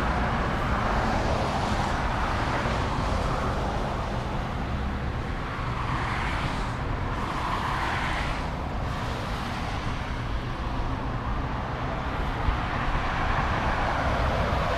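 Steady outdoor road-traffic noise with a low rumble, swelling a little about six to nine seconds in.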